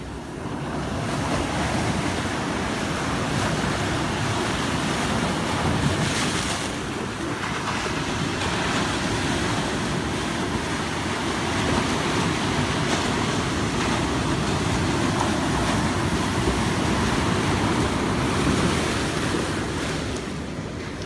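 Pacific Ocean surf breaking and washing around jetty rocks: a steady rush of water that swells about a second in, with a louder surge about six seconds in. Wind is buffeting the microphone.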